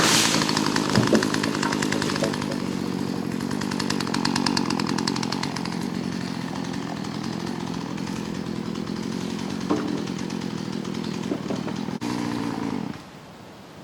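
Two-stroke chainsaw running at high revs, then cut off suddenly near the end.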